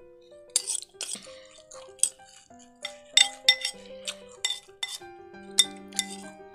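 Background music with held, sustained notes, over close-up eating sounds: about a dozen sharp crunches and clinks from eating khanom jeen noodles with crisp fresh vegetables out of a bowl. The loudest come about three seconds in and again about five and a half seconds in.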